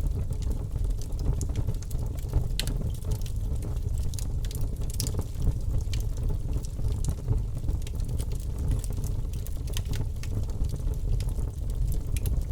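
Fireplace fire burning, a steady low rumble under frequent sharp crackles and pops.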